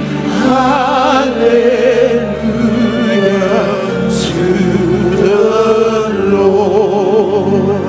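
Slow gospel worship music: a voice singing long, held notes with vibrato over a sustained accompaniment.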